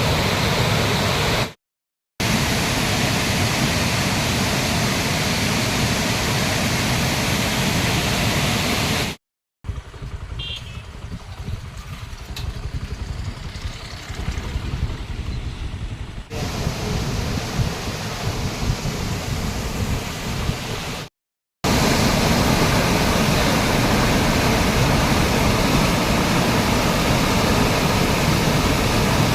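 Steady roar of rushing floodwater, in several shots cut together with brief silent breaks between them; one shot near the middle is quieter and duller.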